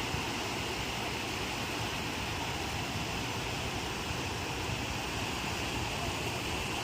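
Ocean waves breaking on a shore, heard as a steady wash of noise with no single crash standing out.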